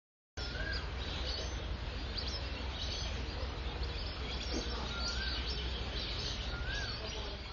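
Wild birds calling over wetland ambience: a few short whistled notes, each rising and falling, and scattered higher chirps, over a steady low rumble.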